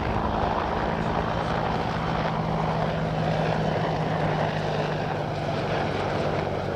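Two attack helicopters, an AH-64 Apache and a Bell AH-1 Cobra, flying by with a steady rotor and turbine din. A low steady hum within it fades out about five and a half seconds in.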